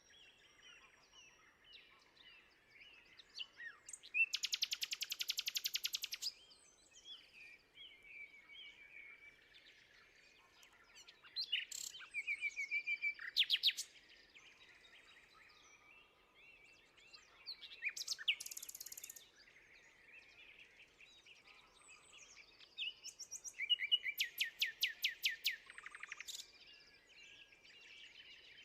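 Songbirds singing outdoors: a loud, fast trill of evenly repeated notes lasting about two seconds sounds twice, about four seconds in and again near the end, with other chirps and short songs in between.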